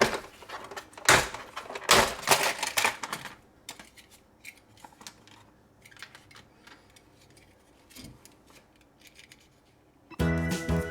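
Plastic toy truck carry case being opened: sharp clicks of its catches and hard plastic clattering, loud for the first few seconds, then only faint scattered clicks. Background music begins near the end.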